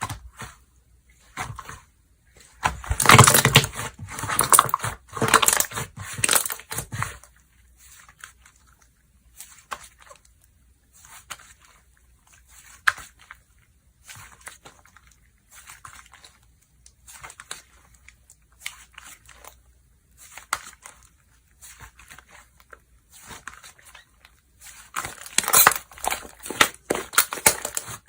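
Slime being squeezed, stretched and poked by hand, making bursts of short clicks and pops. The bursts are loudest for a few seconds near the start and again near the end, with quieter ones in between.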